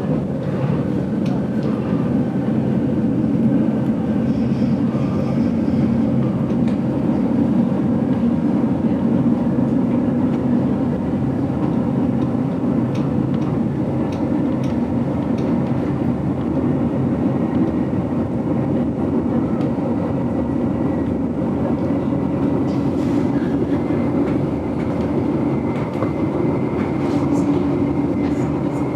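GoldenPass Belle Époque train running along the line, heard from inside a vintage carriage: a steady rumble of wheels on rails with faint clicks now and then. A faint high whine comes in near the end.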